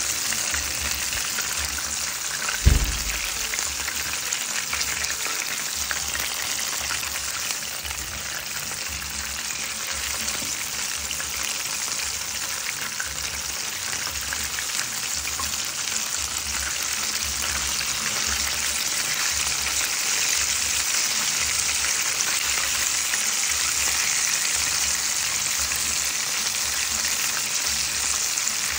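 Breaded chicken pieces deep-frying in hot oil: a steady sizzle, with a single loud knock about three seconds in.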